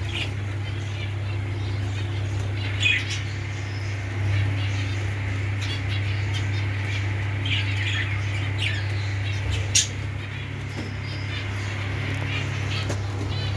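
Lovebirds chirping and squawking in short scattered calls over a steady low hum, with a sharp click near the start and another about ten seconds in.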